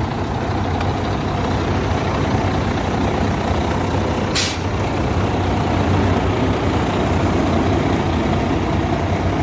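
Truck's diesel engine idling steadily, with a brief sharp hiss about four and a half seconds in.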